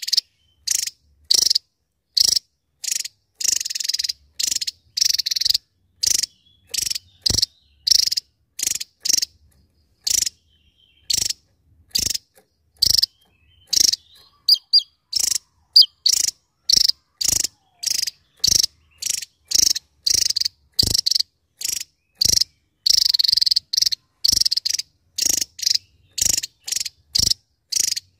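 Javan tesia (Tesia superciliaris) singing a rapid run of short, high, sharp bursts, nearly two a second, with a brief lull about halfway.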